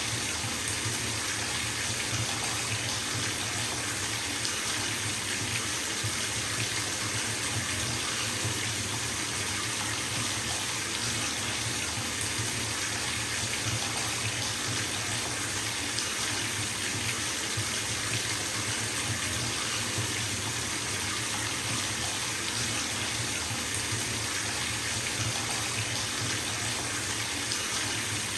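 Bathtub filling from its running tap: water gushing steadily into the tub, an even rushing hiss with a low hum beneath.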